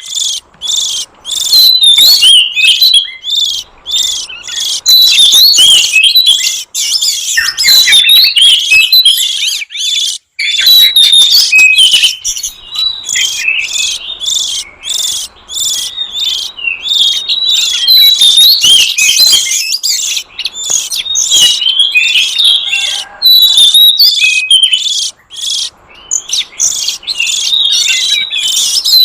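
Oriental magpie-robin (kacer) singing: a loud, fast, unbroken run of varied whistled notes and chirps, with short breaks about seven and ten seconds in.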